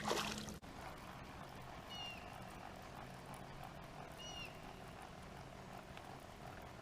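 Low steady hum of a boat motor, with a bird chirping briefly twice, about two seconds in and again about four seconds in. A short rustling noise sounds at the very start.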